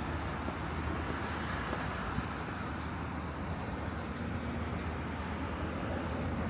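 Steady low rumbling outdoor street noise with no distinct events.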